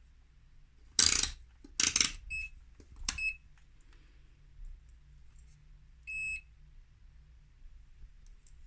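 Two loud knocking noises, then an appliance's electronic control panel beeping three times, the last beep a little longer.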